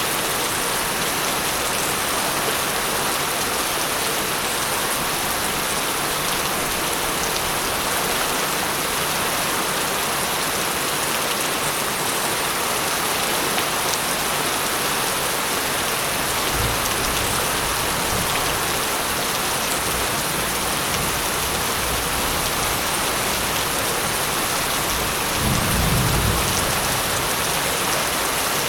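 Steady heavy rain falling, with distant thunder rumbling low about two-thirds of the way through and again, louder, near the end.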